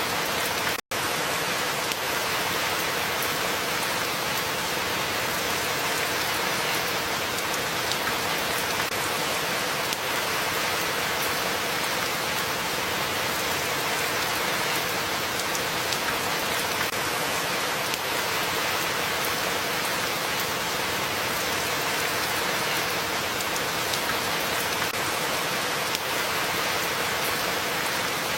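Steady rain falling, an even continuous hiss of drops with no break except a momentary cut-out about a second in.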